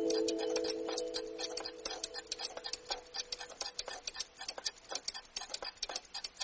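Ringing chime-like tones dying away under a rapid, irregular patter of small sharp ticks, cutting off suddenly at the end.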